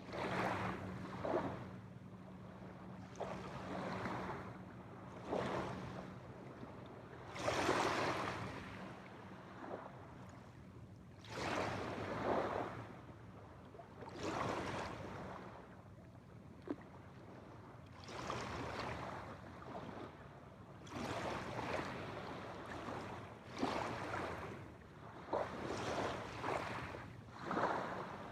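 Small waves breaking and washing on a shore, one short wash every two to four seconds, with a faint steady low hum underneath.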